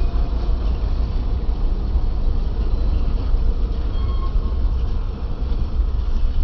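A passenger train moving along the rails past the platform: a steady, loud rumble of wheels and carriages.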